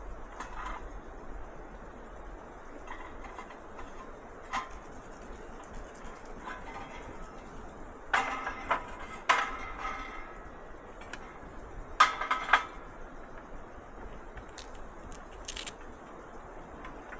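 Camp gear being handled and set down: scattered knocks and clinks of hard objects. The loudest clusters come a little past halfway and again about two-thirds through.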